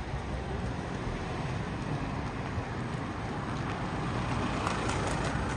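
Road traffic on a street, with a car driving past that grows louder near the end.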